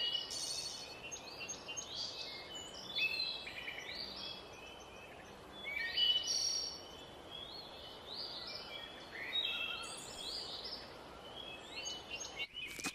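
Several birds singing, a stream of short chirping phrases, over the steady rush of running water from a small waterfall. A few sharp clicks come near the end.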